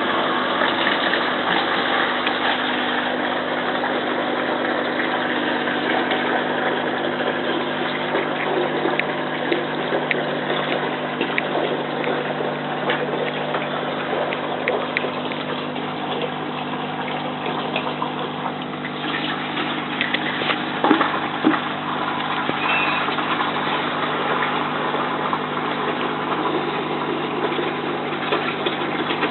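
Bosch WFF2000 washing machine's drain pump running steadily, pumping the wash water out, a steady hum over rushing water. A few clicks come about twenty seconds in.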